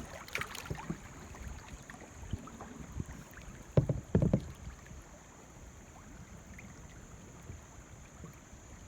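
Kayak paddling on a river: paddle strokes in the water with soft knocks, and two louder knocks about four seconds in, then quieter.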